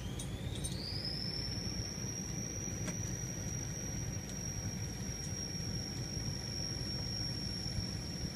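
A machine's steady low rumble with a high-pitched whine that rises over about the first second and then holds steady.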